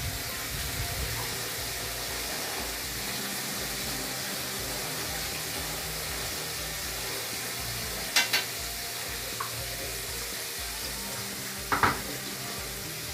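Chicken frying in hot oil in a pot on a gas stove, a steady sizzle. Two sharp clanks of metal cookware come about eight and twelve seconds in.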